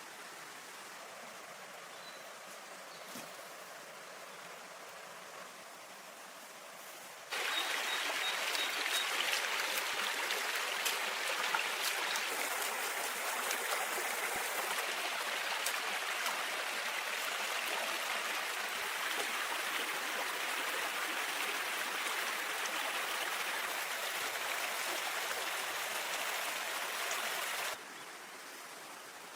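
Quiet outdoor ambience, then about seven seconds in an abrupt switch to the steady rush of flowing water, much louder. It cuts back to the quieter ambience near the end.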